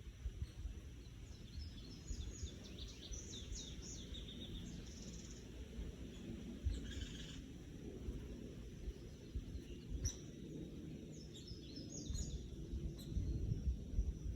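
Birds chirping in quick series of short, high notes, in bursts early on, once around the middle and again near the end, over a steady low rumbling noise.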